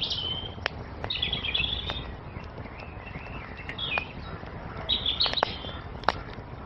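Wood fire crackling with scattered sharp pops over a low steady rush, while songbirds sing several short chirping phrases.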